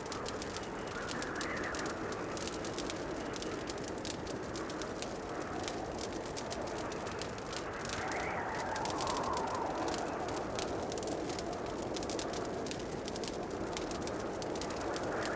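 Wood fire in a fireplace crackling, with many small sharp pops over a steady soft rushing of the flames. A few soft swells come and go in the background.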